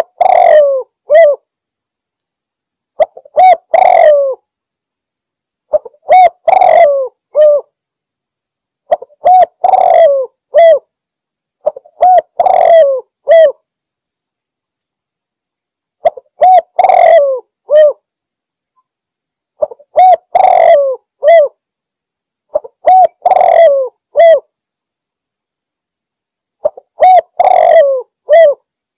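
Spotted dove (tekukur) male singing its loud three-note cooing call, repeated about nine times at roughly three-second intervals with short silences between.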